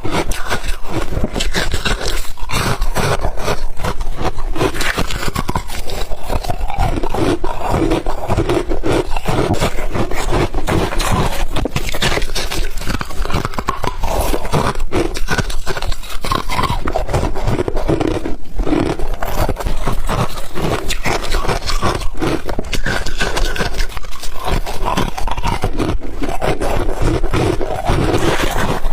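Ice being bitten and chewed close to the microphone: a dense run of loud crunches and crackles, many a second.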